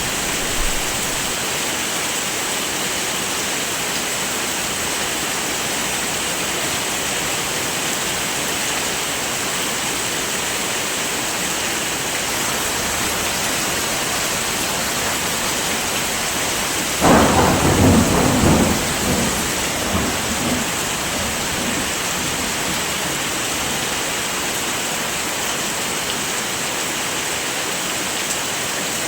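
Steady heavy rain. A little past halfway a single clap of thunder breaks out suddenly and rumbles away over about three seconds.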